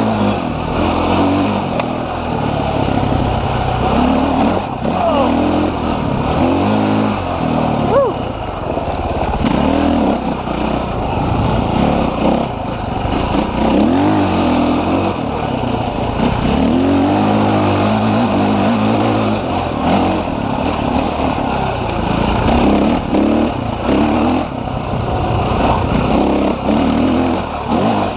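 Dirt bike engine running and revving up and down as it is ridden, its pitch rising and falling every second or two.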